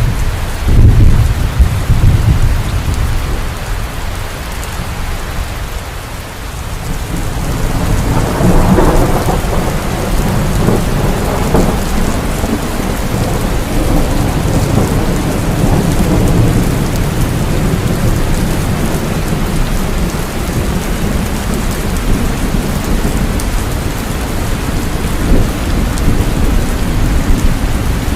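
Heavy rain falling steadily with rolling thunder. A loud low rumble comes about a second in and dies down, then a second long roll of thunder builds about eight seconds in and rumbles on under the rain.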